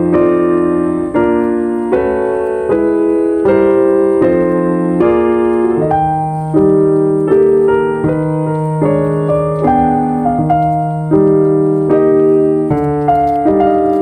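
Calm solo piano music: slow chords and notes struck at an even pace, each fading before the next.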